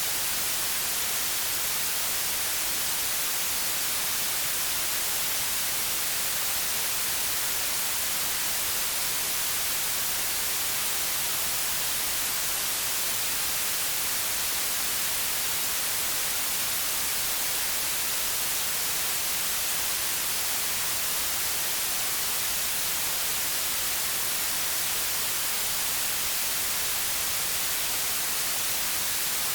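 Steady white noise: an even, unchanging hiss, brightest in the treble, with no other sound.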